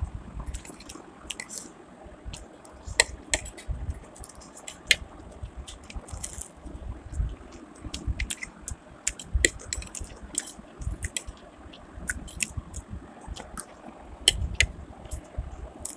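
A person eating chow mein noodles and fried chicken pakoras: close chewing and biting with wet mouth noises, and many short sharp clicks scattered throughout.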